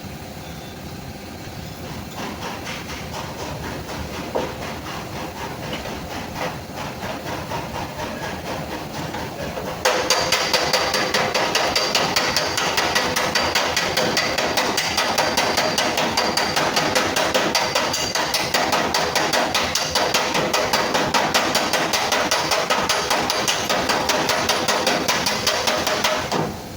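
Hammer tapping rapidly on the sheet-metal fender panel of a Kia Sorento, the metal ringing with each strike. The tapping gets much louder and faster about ten seconds in and stops just before the end.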